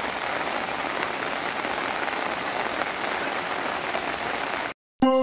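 Steady rain falling, an even hiss. It cuts off abruptly near the end.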